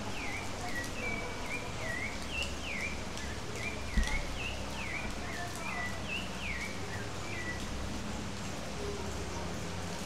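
Steady rain falling, with a bird repeating short, quick downward-gliding chirps over most of the first eight seconds. A single sharp thump about four seconds in.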